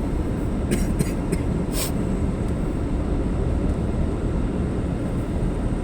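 Steady low rumble of a car's engine and tyres on the road, heard from inside the cabin while driving, with a few brief clicks between about one and two seconds in.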